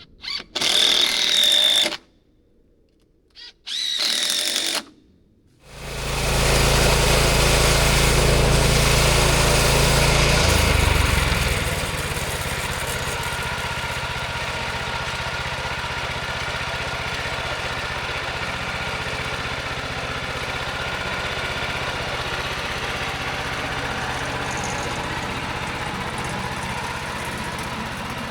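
A few short bursts of machine noise with a high whine, then a small engine starts running steadily. It is loudest for the first few seconds and then settles at a lower, even level.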